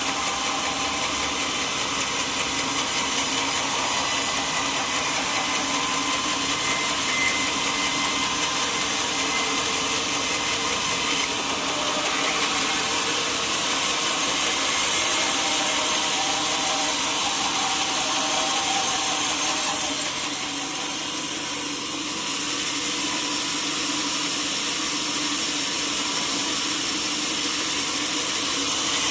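Sawmill saw cutting through a teak log with a steady, dense sawing noise; the level dips briefly about eleven seconds in and again around twenty-one seconds.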